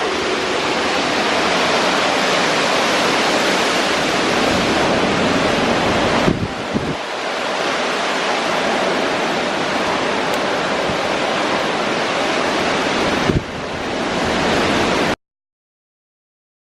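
Hurricane-force wind blasting over the microphone in a steady loud rush, easing briefly twice, then cutting off suddenly to silence near the end.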